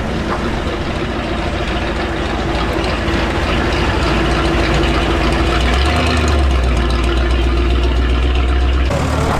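A vehicle engine running close by, idling steadily; its low hum deepens about six seconds in, and the sound changes abruptly near the end.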